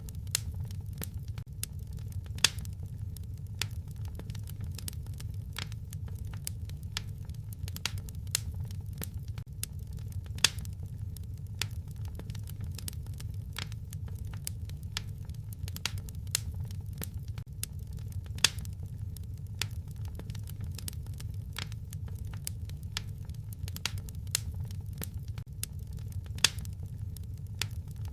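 Wood fire crackling in a fireplace: a steady low rumble of burning with frequent small snaps and pops, and a few louder sharp pops every several seconds.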